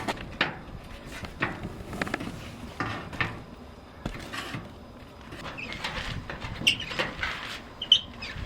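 Irregular handling noises: knocks, clicks, scraping and rubbing, with a few short high squeaks near the end.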